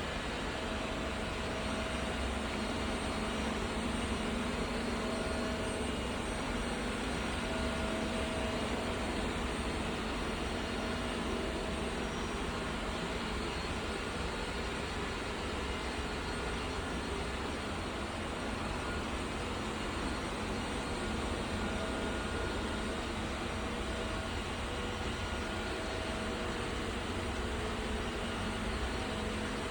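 Roborock Qrevo S robot vacuum running with a steady whir from its suction fan and brushes.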